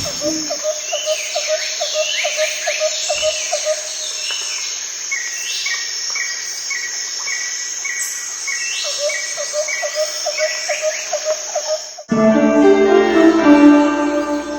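Birds chirping and calling in a regular, repeating pattern of short notes and falling whistles over a steady high-pitched buzz. About twelve seconds in this cuts abruptly to a louder sound of many stacked tones.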